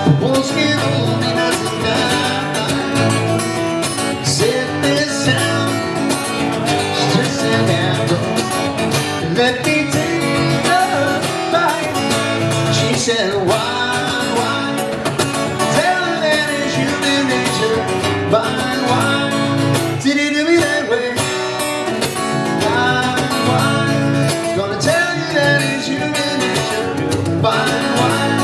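Acoustic guitar music with a steady bass line underneath, from a live acoustic cover performance.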